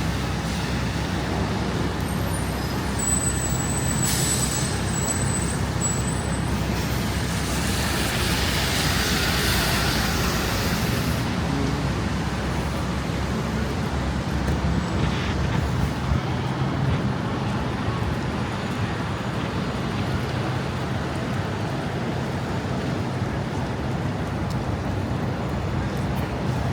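Steady city street traffic noise with a constant low rumble. A thin high whine runs for about three seconds a few seconds in, followed by a hiss lasting a few seconds.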